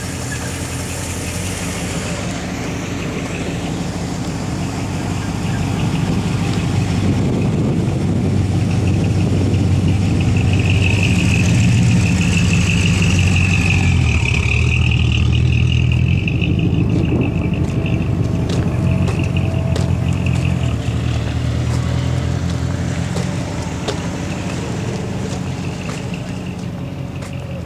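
A car engine idling steadily, getting louder toward the middle and easing off again. A wavering high tone sounds over it for several seconds in the middle.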